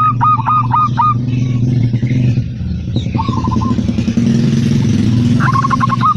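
Zebra dove (perkutut) cooing in rapid runs of short, hooked notes, about five a second. One run plays for the first second, a short one comes about three seconds in, and another starts near the end, over a steady low hum.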